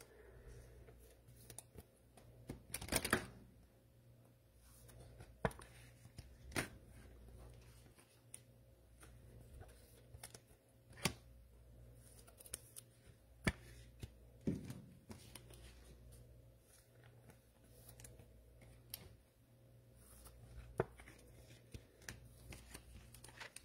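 Faint handling of trading cards: scattered soft taps and clicks as cards are sorted and set down, with brief rustles about three seconds in and again near the middle.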